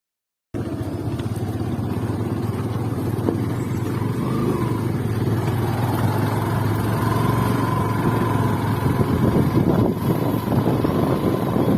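Motorcycle engine running steadily while riding, cutting in abruptly after a brief silence at the start.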